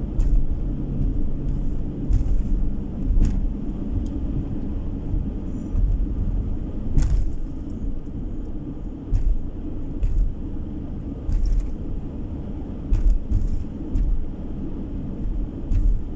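Car being driven, heard from inside: a steady low rumble of engine and road noise, with a dozen or so short, irregularly spaced knocks.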